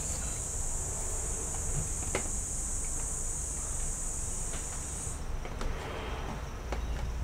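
A steady high-pitched whine that cuts off abruptly about five seconds in, over a low hum, with a few faint clicks.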